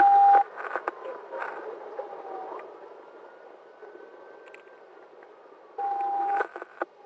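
Police car siren wailing, its pitch falling slowly and rising again, over road noise during a high-speed pursuit. Two short, loud radio beeps cut in, one at the start and another about six seconds in.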